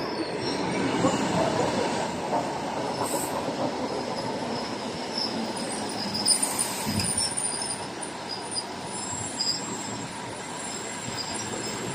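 Electric commuter train moving along a station platform: a steady rumble of wheels on the rails with faint high-pitched squealing tones above it.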